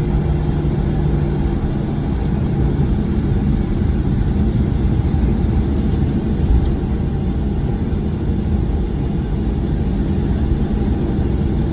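Steady low cabin rumble inside a Boeing 737-900ER on the ground after landing, its CFM56-7B engines at idle. A low hum fades out over the first few seconds, and a few faint ticks sound near the middle.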